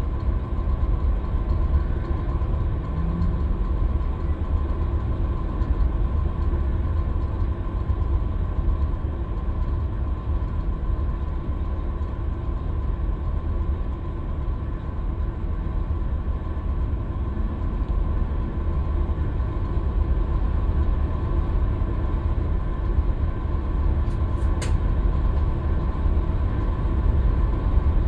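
Scania K320UB city bus on the move: steady low diesel engine and road rumble with a faint steady whine. A brief sharp click comes about 24 seconds in.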